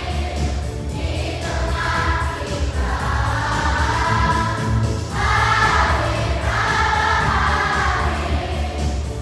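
Children's choir singing a Christmas song in unison in phrases, over a steady instrumental backing with a low bass line.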